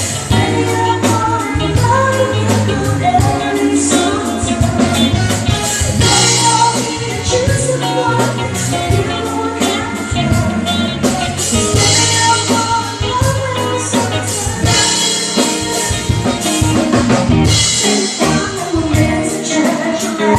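Live cover band playing a song with a singer over drum kit and a steady beat.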